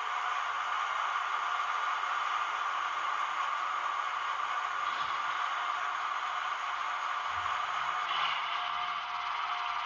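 Bastiani sound decoder in a model RGP diesel railcar playing its engine running sound steadily through the model's small speaker, with a slight change in the sound near the end.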